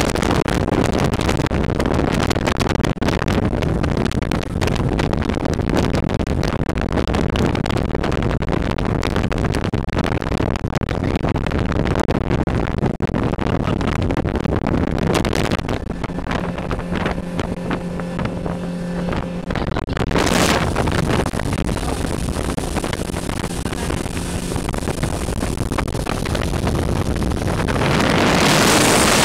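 Motorboat running under way, its engine noise mixed with wind buffeting the microphone. For a few seconds past the middle the engine's steady hum stands out more clearly, and near the end a rushing noise of wind and water swells.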